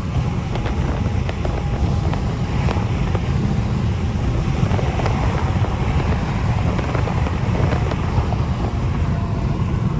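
Car at highway speed: a steady, loud mix of engine, tyre and wind noise, with no clear revving rise or fall. The car is an E85-tuned Infiniti Q50 3.0T, whose engine is a twin-turbo V6.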